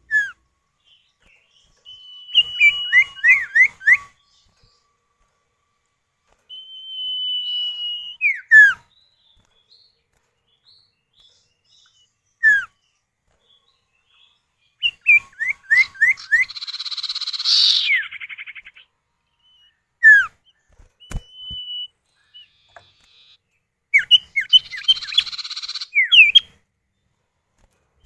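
Common iora (sirtu or cipoh) pair calling back and forth, male and female answering each other: long level whistles, sharp down-slurred notes and buzzy rattling trills, with short pauses between phrases.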